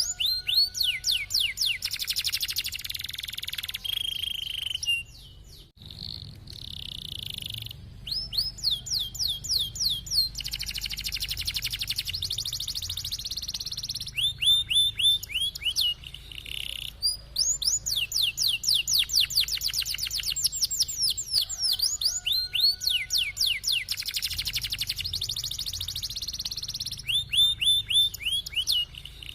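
Domestic canary singing in long rolling trills of rapid, repeated falling notes, broken into phrases by short pauses.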